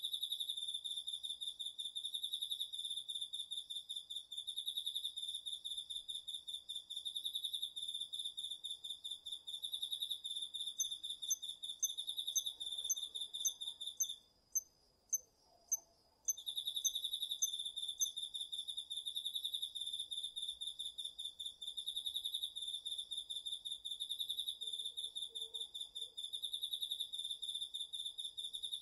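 Autumn night chorus of crickets and other singing insects. One insect keeps up a loud, fast-pulsing high trill that stops for about two seconds near the middle and then resumes, while a fainter steady high trill runs underneath and a second insect adds short, sharp chirps a little over once a second in the middle stretch.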